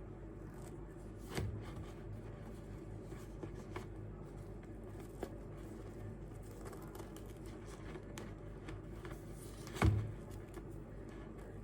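Small clicks and taps of things being handled, with two knocks over a steady low hum: a soft one about a second in and a louder one near the end.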